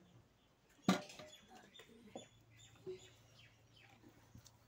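Faint, short high chirps of small birds, with one sharp knock about a second in and a few lighter clicks after it.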